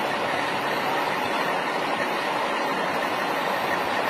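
Steady vehicle noise with no distinct events.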